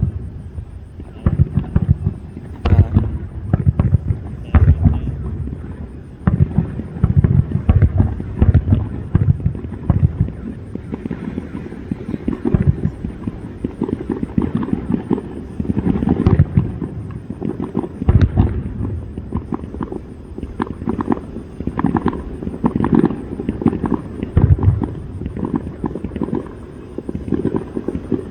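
Fireworks display: a steady barrage of aerial shell bursts, booming several times a second at its densest, with sharper cracks mixed in.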